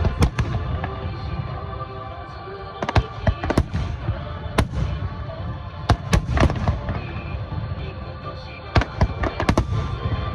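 Aerial fireworks bursting in bursts of sharp bangs and crackles, clustered in quick runs, over steady background music.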